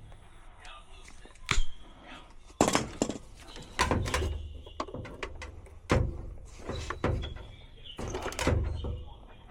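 Irregular knocks and clunks, about half a dozen, some with a dull thud under them: hands handling and knocking a plastic condensate pump and its fittings while the pump is swapped out.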